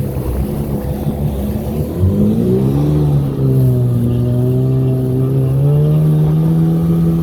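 Sea-Doo XP's Rotax 717 two-stroke twin, still being broken in, running under way: the pitch climbs as the throttle opens about two seconds in, then holds at a steady high cruising note.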